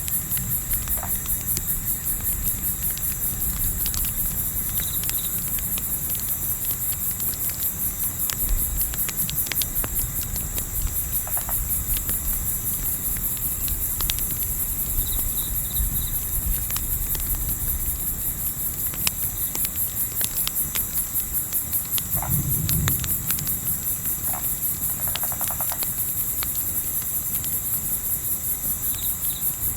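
Crickets chirping in a fast, steady, high trill over a low rumble of wind, with scattered small crackles and pops from a campfire.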